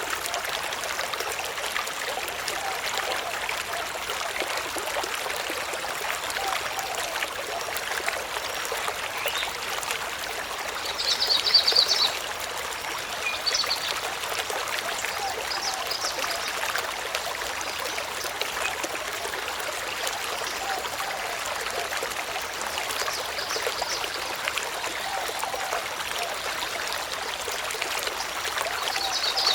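Steady rushing of running water, like a stream, with a few short high-pitched sounds over it, the loudest about a third of the way in.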